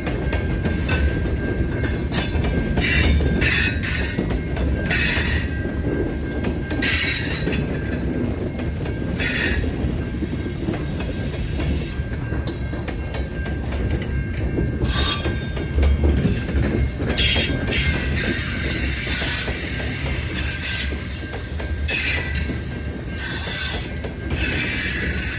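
A train rolling past with a continuous low rumble of its cars, a thin steady high squeal, and repeated short bursts of higher-pitched wheel squeal every second or two.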